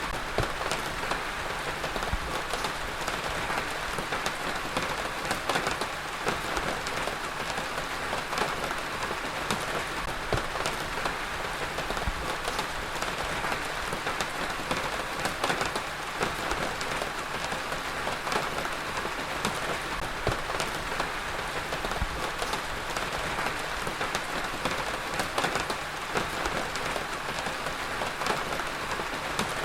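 Heavy rain falling steadily on a surface, a dense even hiss broken by many sharp individual drop hits.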